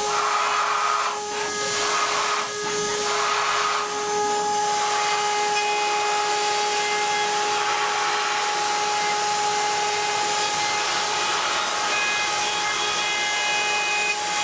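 DATRON M8Cube CNC mill's 3.0 kW high-frequency spindle running at a steady high whine while high-speed milling aluminium, over a continuous cutting hiss. The cutting noise is rougher and uneven for the first few seconds.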